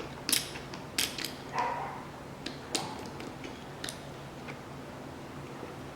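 Ratchet wrench clicking and creaking in short strokes as the engine is turned over by hand to prime the oil pump. The clicks thin out after about four seconds.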